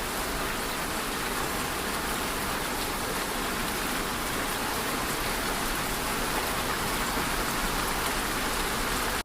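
Steady rain falling: an even, continuous hiss of many drops striking a surface.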